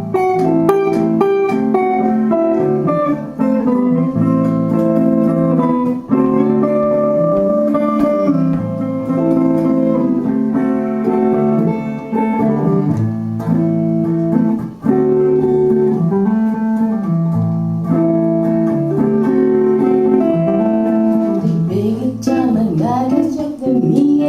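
Guitar playing plucked melodic lines: an instrumental passage of a live song.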